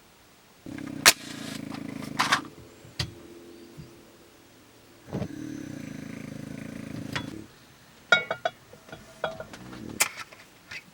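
A bulldog snoring: two long snores of about two seconds each, one about a second in and one in the middle, with sharp clicks and light clatter in between and near the end.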